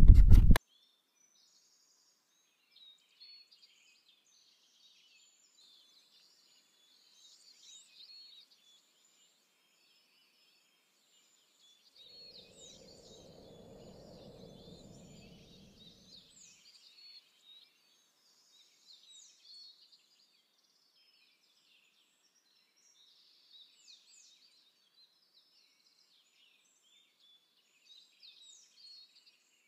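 Faint songbird chorus, many short chirps and trills throughout, after a loud noise that cuts off sharply at the very start. About halfway through, a soft low rumble swells for a few seconds and fades.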